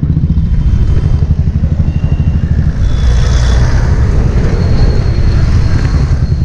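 Royal Enfield Classic 350's single-cylinder engine running under way, a rapid, steady low thumping of firing pulses heard close up.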